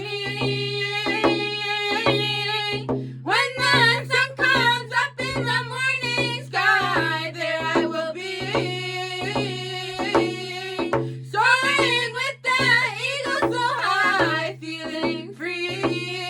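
Indigenous drum song: a solo voice sings sliding, wavering phrases over a steady, evenly spaced drumbeat. The voice breaks off briefly between phrases while the drum keeps time.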